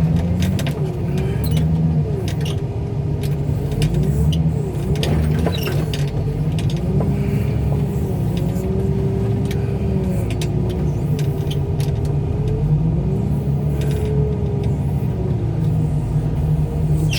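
Car crusher's engine and hydraulics running under heavy load as it crushes a trash-filled bundle of cars: a steady low drone with a whine that wavers up and down in pitch. The crusher is overworking on a load this full of trash.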